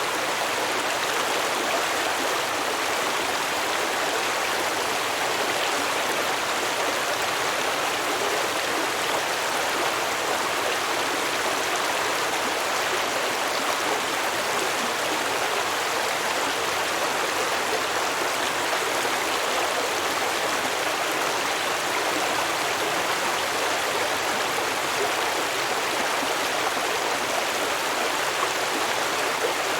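Shallow stream running over rocks, a steady babbling rush of water.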